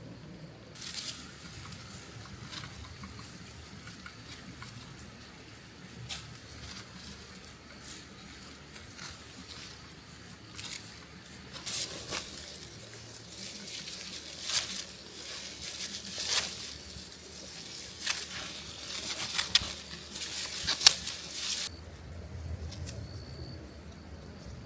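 Dry vegetation rustling and crackling with sharp snaps. It starts about a second in, grows louder through the middle and cuts off suddenly a few seconds before the end.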